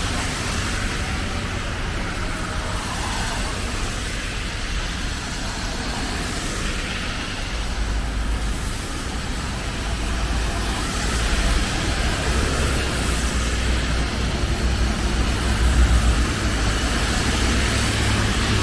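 Road traffic: cars passing steadily, with a deep rumble that builds from about seven seconds in and grows a little louder near the end.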